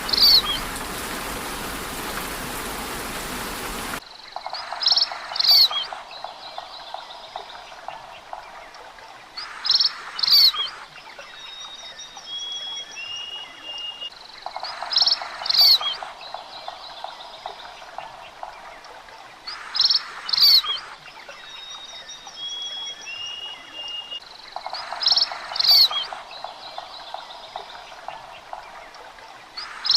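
Steady rain hiss that cuts off suddenly about four seconds in. It gives way to bird calls: a short two-part burst of chirps repeats about every five seconds, with faint thin whistles in between.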